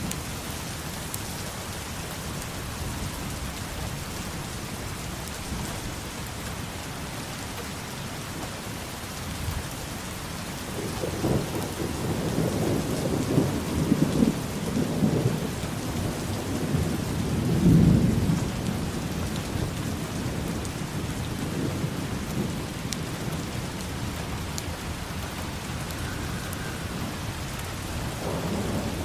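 Steady rain falling, with thunder rumbling in a little over a third of the way through, swelling to its loudest just past the middle and fading, then rising again near the end.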